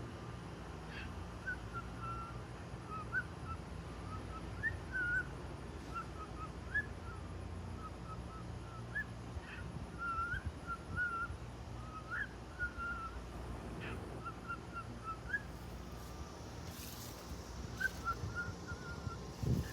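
Pet bird singing a string of short, chirpy whistled notes over a low, steady outdoor rumble.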